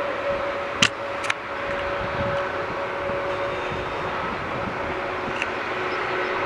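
Steady hum of jet airliner engines on the airfield, with a constant whine running through it. Two short clicks come about a second in.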